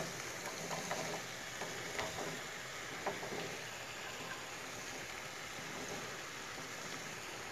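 Spiced masala sizzling in a steel pot as cubed raw turnips are tipped in from a glass dish, with a few light knocks of the pieces landing in the first three seconds.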